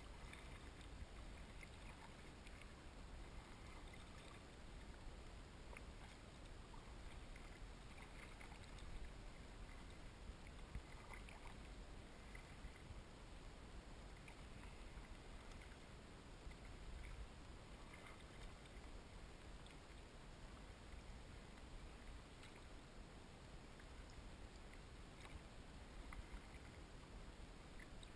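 Faint sounds of a kayak on calm water: small scattered splashes and drips over a low, steady rumble.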